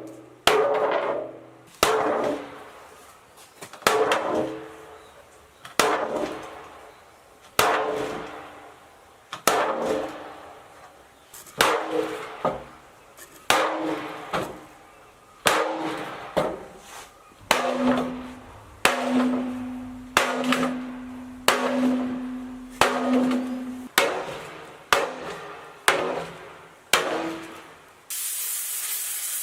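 Hammer blows on metal, one every second or two, each leaving a short ringing tone. Near the end they stop and a steady hiss begins.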